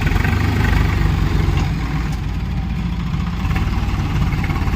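Swaraj tractor's diesel engine running with a steady low throb, a little louder in the first second and again near the end.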